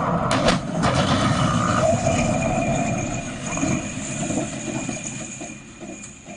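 Heavy machinery or a large vehicle running with a steady mechanical rattle and a few sharp knocks about half a second in, growing quieter toward the end.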